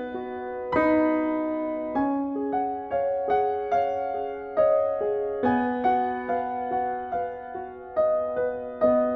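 Gentle piano music: a slow melody of sustained notes over chords, a new note struck about every half second.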